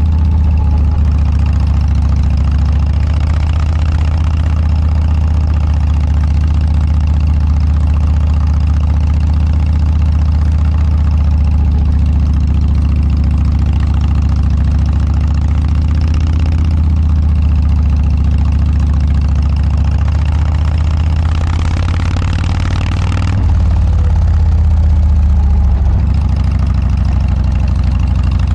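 Harley-Davidson Dyna's V-twin engine running through Motorstage aftermarket mufflers, a steady deep exhaust note. About three-quarters of the way through, a rushing noise swells briefly and the engine note changes twice.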